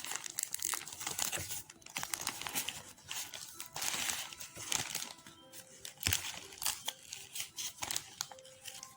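Paper wrapping around a hamburger crinkling and rustling irregularly as it is opened out and handled.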